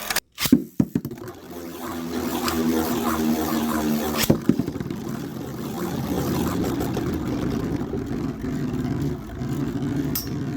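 Storm Pegasis 105RF and Burn Phoenix 135MS Beyblades clattering in the first second, then spinning and scraping across the stadium floor with a steady whir. They strike each other sharply about four seconds in and again near the end.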